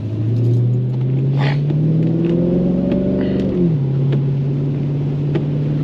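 2013 Chevrolet Camaro SS 6.2-litre V8 engine pulling under acceleration, its pitch rising steadily, then dropping sharply a little over halfway through as it shifts up, and running steadily after that.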